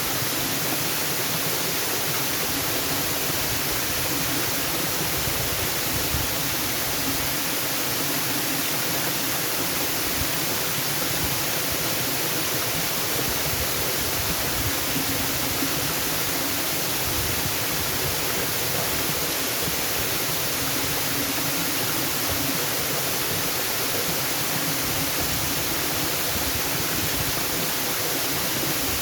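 Waterfall: a steady, unbroken rush of falling water, bright and hissy with no changes.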